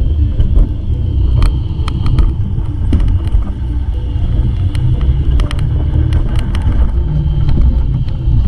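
Loud wind rumble buffeting a body-worn action camera's microphone, with a steady high whine and scattered sharp clicks over it.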